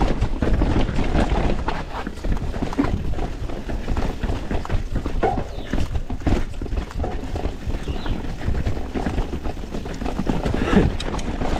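Mountain bike descending a rough bike-park trail: constant clattering and knocking of tyres, chain and frame over roots and rocks, over a low rumble of wind and ground noise. The bike is a YT Industries Capra 4 with an Öhlins air fork, and it is taking a rough section.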